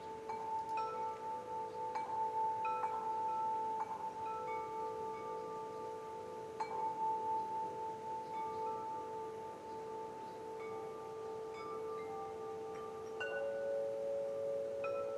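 Wind chimes ringing, struck at irregular moments with long overlapping notes that sustain between strikes; a new, higher note comes in near the end.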